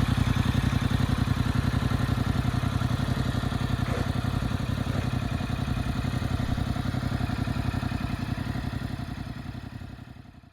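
Yamaha YZF-R7's 689 cc parallel-twin engine idling steadily with an even pulse, fading out near the end.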